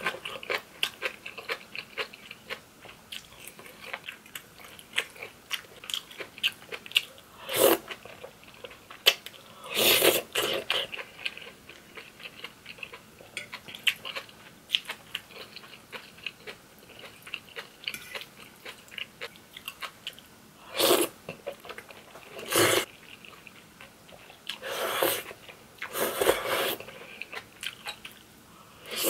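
Close-miked chewing and biting of cream fettuccine with crispy air-fried beef large intestine. Wet mouth clicks run throughout, with about six louder bursts of noise.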